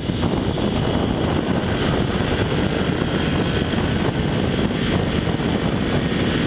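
Yamaha WR125 motorcycle's single-cylinder four-stroke engine running at a steady road speed under heavy wind rush on a helmet-mounted camera. The engine sounds very unhappy, which the rider puts down to it being low on oil.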